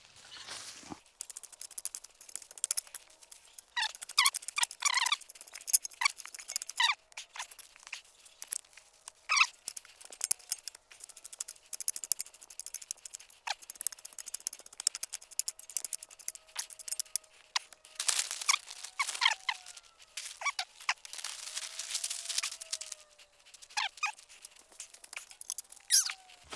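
Plastic sheeting crinkling and crackling in irregular bursts as it is handled and spread over the ground.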